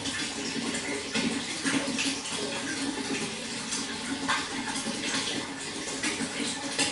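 Running water flowing and splashing steadily, with many small irregular splashes.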